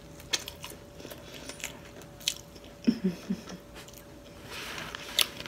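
Close-miked chewing of a soft flour-tortilla chicken taco: scattered wet mouth clicks and smacks, with a brief hum from the eater about three seconds in.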